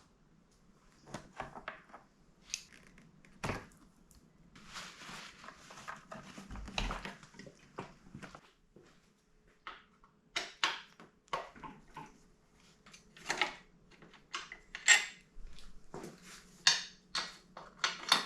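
Metal tools and motorcycle parts clinking and knocking: an irregular run of sharp clicks and taps, with a few seconds of scraping a few seconds in, as hand tools and exhaust hardware are handled on the workbench.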